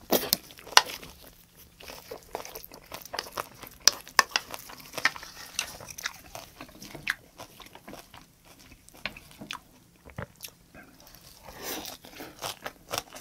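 Close-miked chewing of green onion kimchi with jjajang: a run of crisp, irregular crunches and wet mouth clicks, picking up again near the end as another bite goes in.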